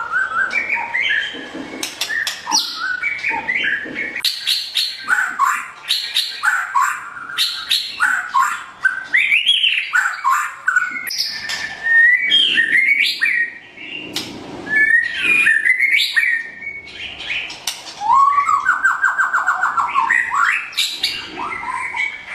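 White-rumped shama (murai batu, pied 'blorok' form) singing a continuous, varied song of gliding whistled phrases mixed with sharp clicking notes, with a fast trill near the end.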